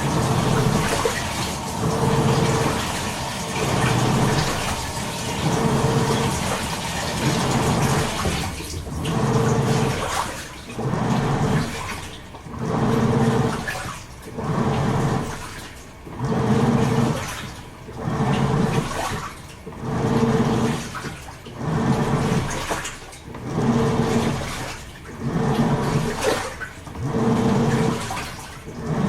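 Toshiba AW-42SEE4(S) top-loading washing machine agitating a load: the pulsator motor hums in short strokes about every 1.3 seconds, each stroke churning the water and laundry, with brief pauses as it reverses direction.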